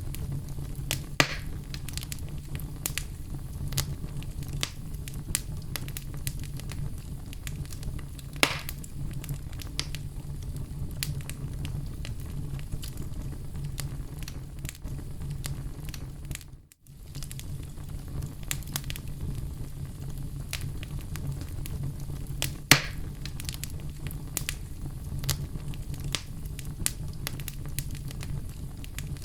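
Oak logs burning in a fireplace: a steady low rumble of flames under constant small crackles, with three louder pops. The sound cuts out for a split second a little past halfway.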